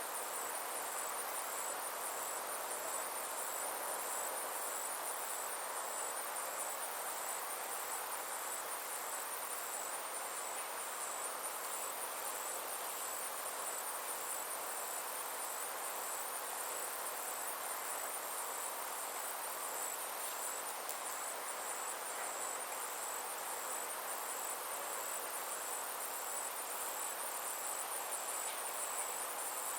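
Insects trilling steadily in summer, a high-pitched chirring with an even pulse, over a constant soft rushing background.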